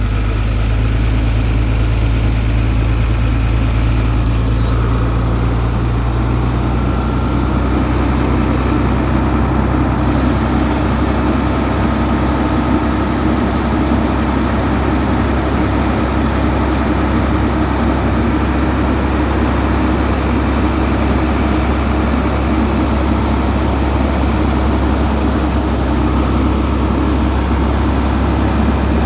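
Heavy diesel road-paving machinery running steadily, a loud, even engine drone with a strong low hum.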